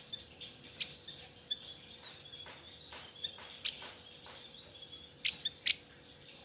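Songbird calling in short, high chirps, with a few sharper, louder notes in a quick cluster about five seconds in, over a faint steady high-pitched tone.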